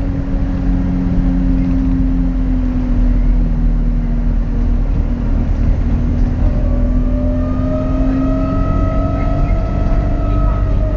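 Alexander Dennis Enviro200 single-deck bus engine running steadily. About two-thirds of the way through, a turbo whistle comes in, rises slightly in pitch, then holds steady before fading.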